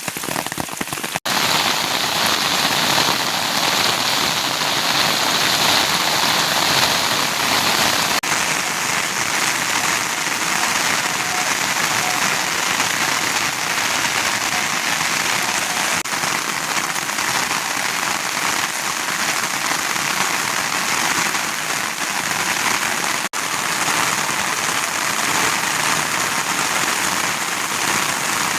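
Steady rain falling, an even hiss that drops out for an instant about a second in and again near the end.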